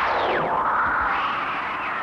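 Synthesized sci-fi sound effect: a noisy electronic whoosh with a sharp falling sweep in the first half second, then a wash that slowly fades.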